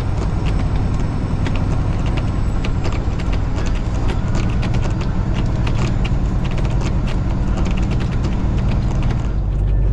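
Semi truck's diesel engine running with a steady low hum while the cab and trailer rattle and creak with many small knocks as it moves. The rattling stops about nine seconds in, leaving only the engine hum.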